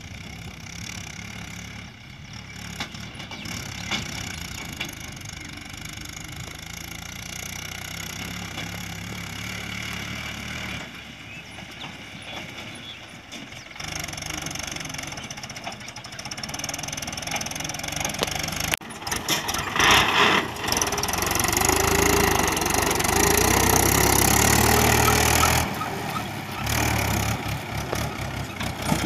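Tractor engines running in a run of short clips, loudest and heaviest from about 19 to 26 seconds in.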